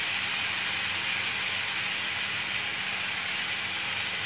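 Chopped tomatoes and onions sizzling in oil in a kadhai over a gas flame: a steady, even hiss.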